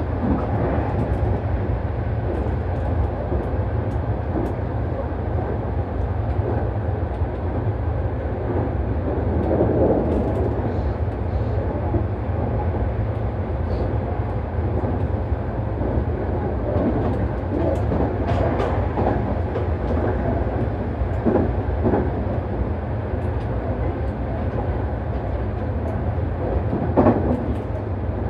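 Nankai Main Line express train running at speed: a steady low rumble of wheels on rail, with a few short clunks, the loudest near the end.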